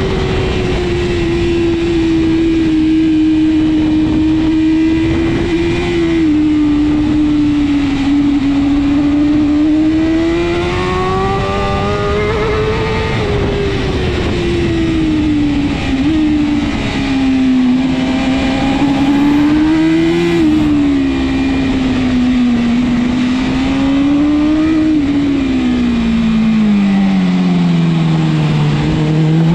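BMW S1000RR superbike's inline-four engine at racing speed, its pitch rising and falling as the bike accelerates and slows through the corners. Near the end the note drops for several seconds as the bike slows, then begins to climb again.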